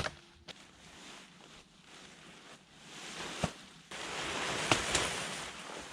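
Wind blowing across the microphone, swelling from about four seconds in, with two sharp clicks.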